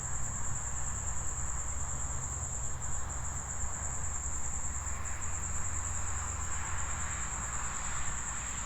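Crickets chirping in one steady, high-pitched trill, with a low rumble underneath.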